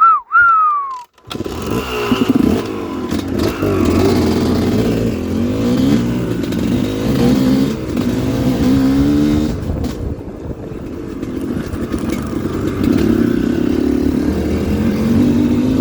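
Dirt bike engines running and revving, their pitch rising and falling as they ride over rough ground, with more than one engine note at once. Just before the engines come in, two short falling whistle-like tones.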